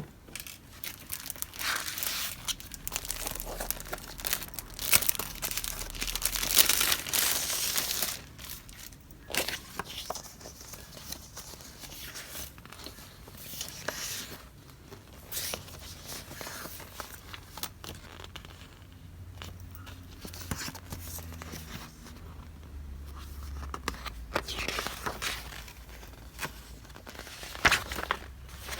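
Stationery paper goods and their wrapping being handled: irregular crinkling and rustling with small clicks, busiest in the first eight seconds and again near the end.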